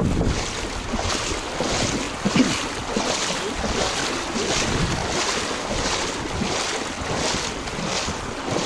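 Footsteps wading through shallow flood water, a splashing swish about twice a second, with some wind on the microphone.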